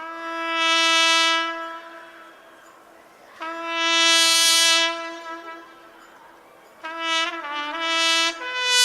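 Solo trumpet playing slow, long held notes that swell and fade: three phrases on the same low note, the third with a brief dip in pitch, then a higher note with vibrato starting near the end.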